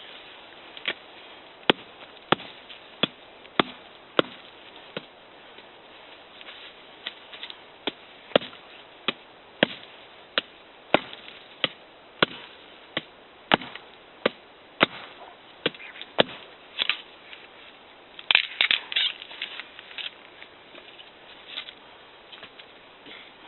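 A digging tool chopping into sandy forest ground in steady strokes, about three every two seconds, while an air channel for a Dakota fire pit is dug out. A brief burst of scraping and rustling comes near the end.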